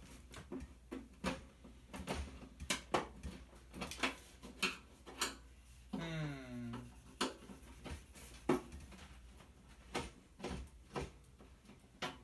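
Screwdriver clicking and scraping on stubborn sheet-metal screws in a toaster oven's casing; the screws turn a bit and then spin in place instead of backing out. About six seconds in, a short hum falls in pitch for about a second.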